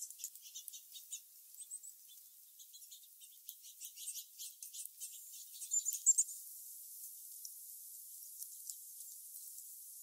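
Wild birds calling: a scatter of short, high-pitched chips and ticks with a few brighter chirps, thinning out after about six seconds to a faint steady hiss.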